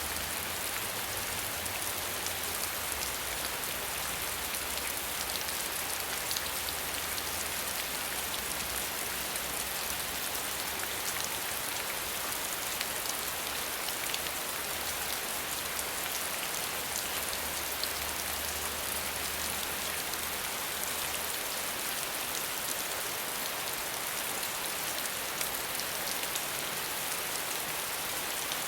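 Steady rain falling without thunder: an even hiss of rain dotted with many small drop ticks.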